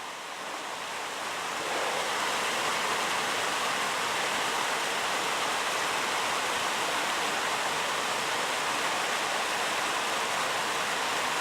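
Waterfall: a steady rush of falling water, growing louder over the first couple of seconds and then holding even.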